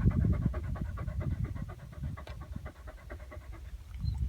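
A dog panting rapidly, a quick even run of short breaths, as a scared, nervous dog does, over a steady low rumble.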